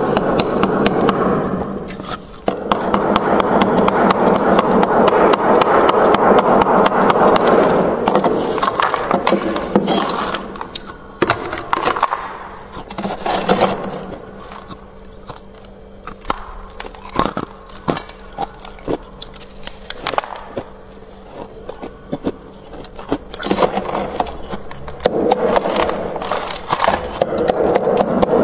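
Freezer frost being scraped off in long runs of dense, continuous rasping, with a quieter stretch in the middle of scattered crisp clicks and crackles, then scraping again near the end.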